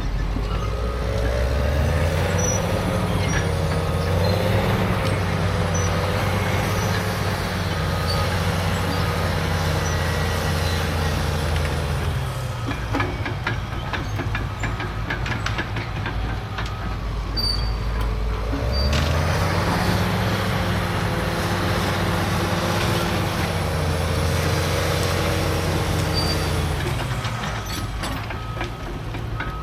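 Heavy earth-moving machine's diesel engine working, twice pulling up to a higher, steady pitch under load for about ten seconds and then dropping back, with metallic clanks and squeaks over it.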